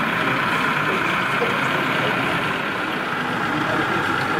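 Steady background hubbub of a busy exhibition hall: many distant voices and running noise blended into an even murmur, with no single sound standing out.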